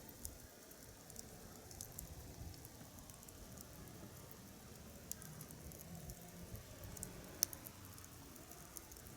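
Wood fire burning in a Snow Peak Takibidai SR fire pit, crackling with scattered small pops and one louder pop about seven and a half seconds in.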